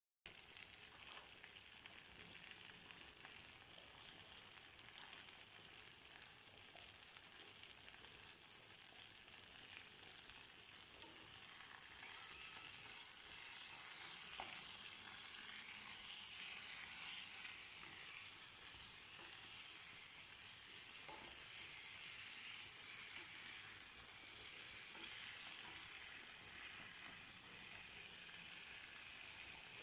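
Chicken thighs sizzling in oil in a stainless-steel frying pan: a steady frying hiss that grows louder about twelve seconds in, with a couple of faint clicks.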